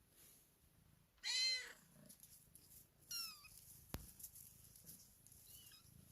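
Five-week-old kittens mewing: a loud mew about a second in, a shorter high mew falling in pitch about three seconds in, and fainter mews near the end. A sharp click comes just before the fourth second.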